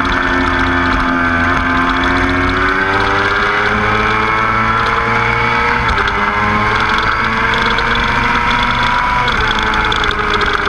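Motorcycle engine accelerating hard on a race track, its pitch climbing steadily and dropping sharply twice as it shifts up through the gears.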